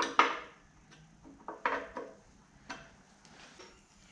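A handful of sharp metallic clinks and knocks, each with a short ring, the loudest right at the start and the rest spaced about a second apart.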